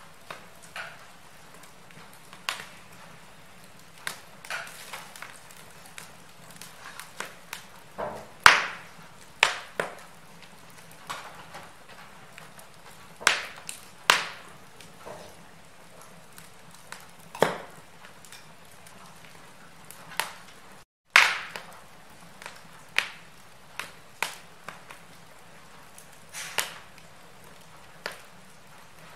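Wood fire in a fireplace crackling: irregular sharp pops and snaps of burning logs over a faint steady hiss, with a couple of louder pops and a brief cut-out in the sound about twenty seconds in.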